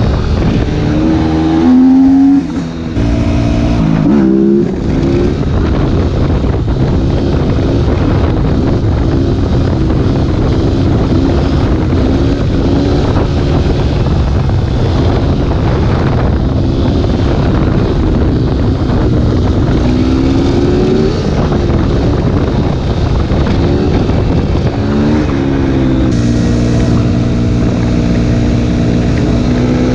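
Suzuki RM-Z250's single-cylinder four-stroke engine through an open Akrapovič exhaust, running loud with the revs repeatedly climbing and dropping, and the throttle briefly cut about two and four seconds in.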